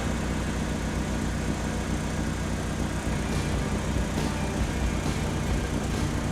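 Motor vehicle engine idling steadily with a low, even hum.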